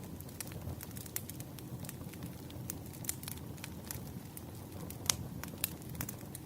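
Campfire crackling: a low steady rumble of burning wood with frequent sharp pops and snaps, the loudest pop about five seconds in.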